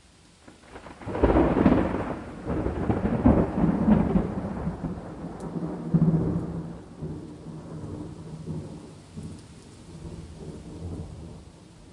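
A thunderclap over steady rain. It starts suddenly about a second in, rumbles on in several loud rolls over the next five seconds, then dies away to the rain.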